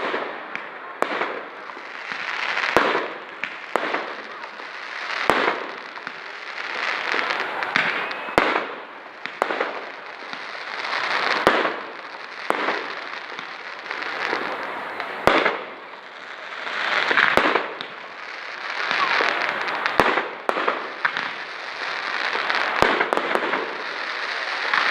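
Fireworks going off: sharp bangs every second or two at irregular intervals, over repeated swells of dense crackling.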